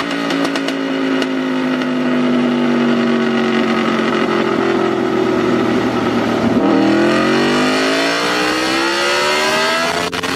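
2010 Aprilia RSV4 Factory's V4 engine, breathing through a Racefit slip-on exhaust, running on a dyno. Its revs fall slowly for the first six seconds or so, then climb again steadily from about seven seconds in.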